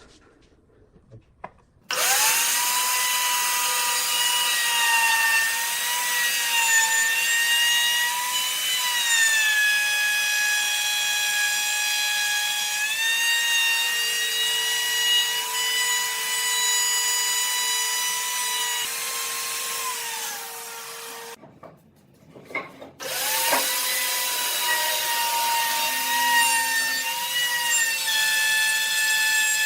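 Handheld electric power tool working wood, its high motor whine dipping in pitch and recovering as it bites under load. It starts shortly after the beginning, stops about three quarters of the way through, and starts up again a moment later.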